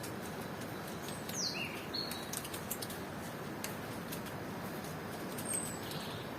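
Steady tropical rain with scattered drops ticking sharply, and a bird calling: a few quick falling whistled notes about a second in, and a short high note again near the end.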